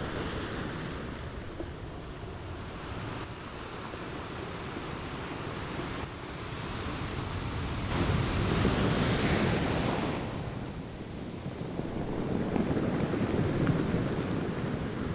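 Choppy ocean surf rushing below the pier, mixed with strong wind buffeting the microphone. The roar swells loudest about halfway through, eases, then builds again.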